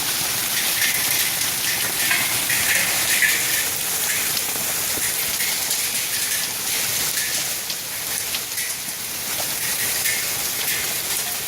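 Hail coming down with rain: a dense, steady hiss of countless small hits, with individual sharper ticks scattered through it.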